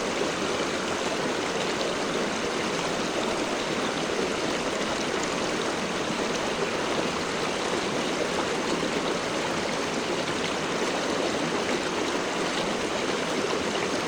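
Steady rush of flowing stream or river water.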